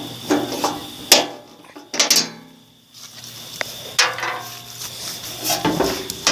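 Hood of a Craftsman pulling tractor being handled and lifted open: a few sharp clanks and rattles, the loudest about a second in, then around two and four seconds in.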